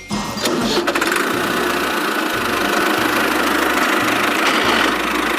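Tractor engine sound running steadily with a knocking, diesel-like chug. It starts right after a brief cut.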